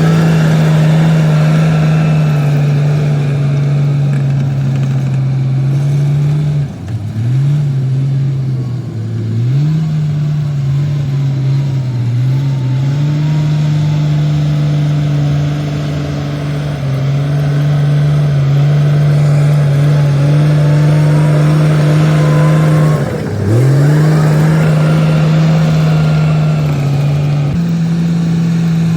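Komatsu D58P bulldozer's diesel engine running steadily at working speed. Its pitch drops sharply and climbs back three times: about a quarter of the way in, again shortly after, and about three quarters of the way in.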